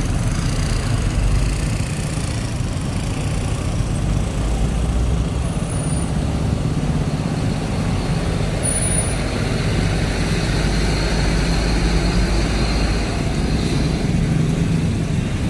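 Steady rumble of road traffic and heavy vehicle engines, with two brief high-pitched chirps about six and nine seconds in.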